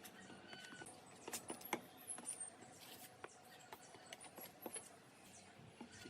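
Faint scattered light taps and clicks, busiest between about one and two and a half seconds in, with a few brief high chirps over a faint steady hum.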